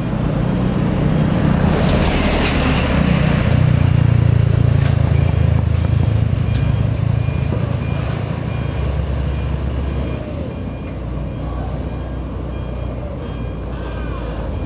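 Heavy truck's diesel engine running hard at low revs while the truck reverses, the note dropping lower about nine seconds in. Strings of quick, high reversing-alarm beeps sound three times.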